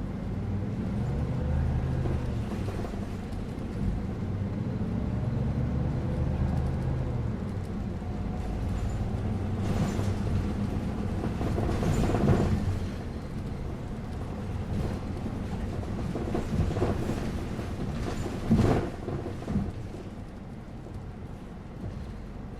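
Inside a bus under way: steady engine drone and road rumble, the low engine hum heaviest in the first third. Several sharp knocks and rattles cut through, the loudest a little before the end.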